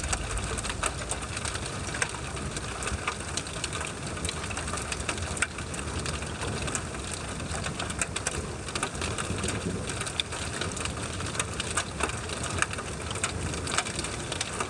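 Steady rain during a thunderstorm, with irregular drops ticking against a nearby surface over a low steady rumble.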